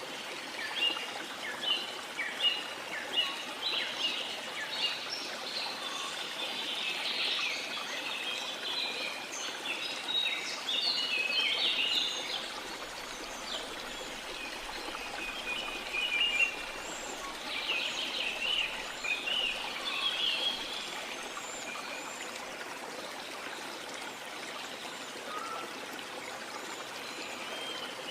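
Steady rushing of a waterfall under many rainforest birds chirping and calling in quick high notes, the birdsong thickest in the first half and again around two-thirds of the way in, then thinning out near the end.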